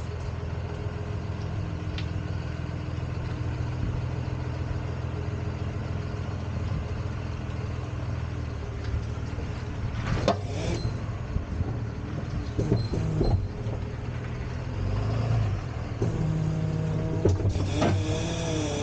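Tow truck engine running steadily. Scattered metallic clanks come in about halfway through, and a wavering mechanical whine joins near the end.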